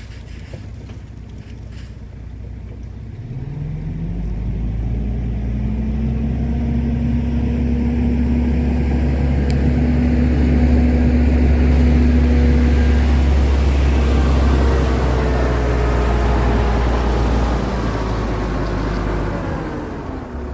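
Volvo FH 480 truck's diesel engine running: its pitch rises a few seconds in, holds steady and loud, then falls away near the end.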